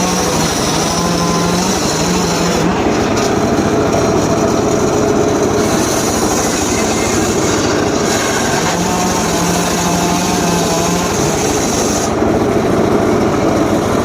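Small engine of a power saw running steadily at high revs. Its pitch dips and recovers several times, around 2 to 3 seconds in and again near the end, as if under load in the wood.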